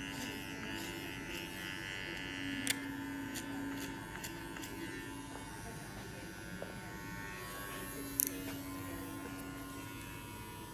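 TPOB GO hair clippers running steadily with a buzzing hum while cutting hair, with two sharp clicks about five seconds apart.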